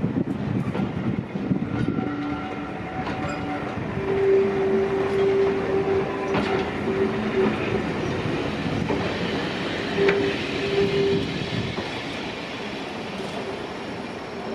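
Passenger coaches rolling slowly past over rail joints with a clickety-clack, while the hauling diesel locomotive's horn sounds from up the line: a brief lower note about two seconds in, a long higher note from about four seconds in, and a short higher note again near ten seconds.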